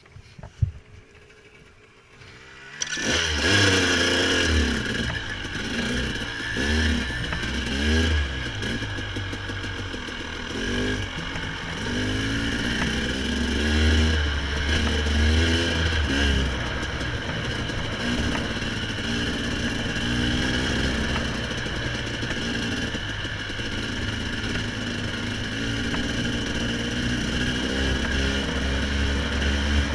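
A dirt bike's engine comes in suddenly about three seconds in and runs on, the revs rising and falling as it rides.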